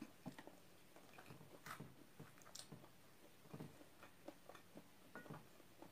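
A person chewing fried chicken with the mouth closed: faint, irregular soft clicks and smacks.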